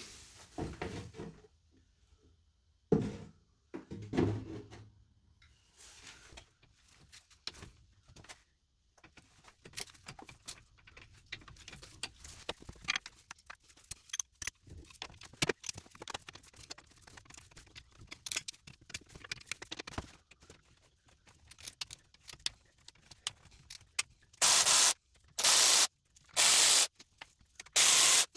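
Scattered clicks, knocks and scrapes of objects being handled, with two louder knocks about three and four seconds in. Near the end come four short, loud bursts of hiss, each about half a second long.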